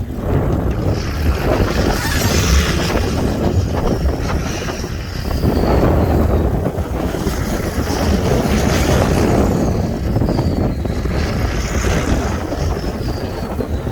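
6.5 L turbo diesel of a 1996 GMC K3500 plow truck working hard as the truck drives a Boss V-plow into deep drifted snow, with a heavy rush of snow and wind over it. A high whine slides down in pitch several times.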